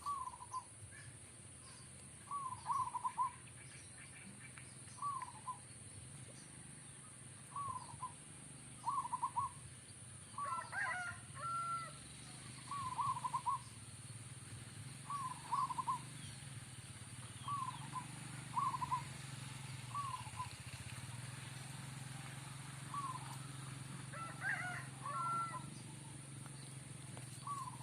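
Zebra dove (perkutut) cooing: short, soft notes in ones, twos and threes, repeating every second or two. Twice, about ten seconds in and again near the end, a different bird's higher, more complex call joins in.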